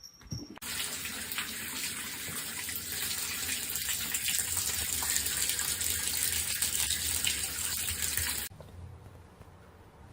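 Water running hard in a steady rush, starting suddenly about half a second in and cutting off abruptly near the end.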